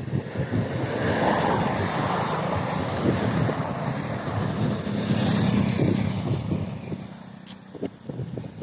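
A motor vehicle passing close by, its noise swelling over a few seconds and fading near the end, with wind buffeting the microphone throughout.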